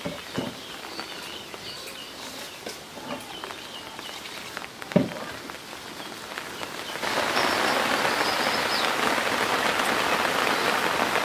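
Steady rain hiss that comes in abruptly about seven seconds in and holds. Before it, a quieter outdoor background with small bird chirps, light clicks and a single sharp thump about five seconds in.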